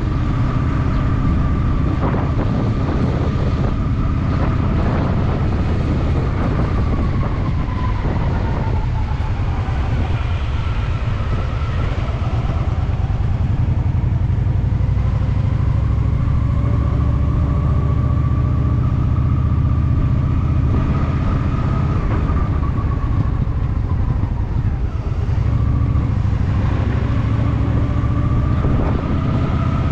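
Honda Shadow VT750's V-twin engine running on the move, with a strong low rumble. Its revs drop about a third of the way in, climb again, ease off once more and then pick up near the end as the bike slows and accelerates in traffic.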